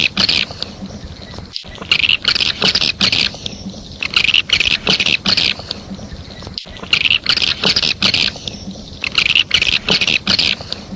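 Recorded swiftlet calls: groups of rapid, high twittering chirps repeating every two seconds or so. It is a looped lure call of the kind played to draw swiftlets into a nesting house, with two brief dropouts where the recording repeats.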